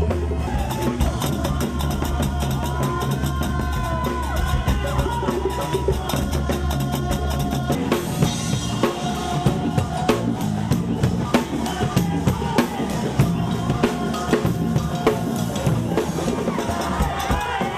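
Band music driven by a drum kit and percussion, with a steady beat of drum hits under a melodic line.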